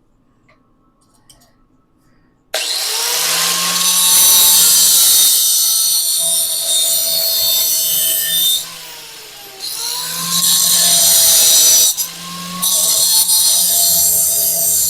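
A handheld power tool running against metal, starting about two and a half seconds in with a steady motor hum and a harsh, hissy cutting noise whose pitch wavers under load. It eases off briefly twice, near the middle and about twelve seconds in.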